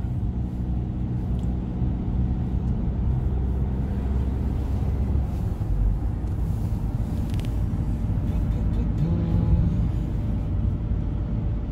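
A car driving, heard from inside the cabin: a steady low rumble of engine and road noise. The engine note rises briefly about nine seconds in.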